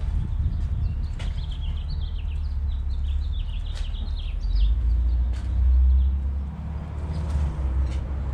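Small birds chirping in quick, repeated short calls, over a low rumble that swells about five seconds in, with a few faint clicks.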